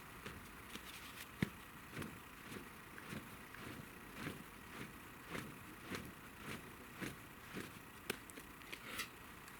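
Footsteps walking over the forest floor at about two steps a second, with a few sharp snaps of twigs or dry debris underfoot.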